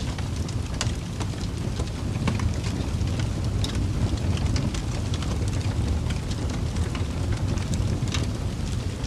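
Wood fire burning in a fireplace: a steady low rumble of flames with frequent scattered crackles and pops.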